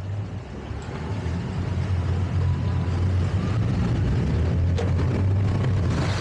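Towboat engine running under power, with a low, steady hum that builds over the first couple of seconds as the throttle comes up, then holds.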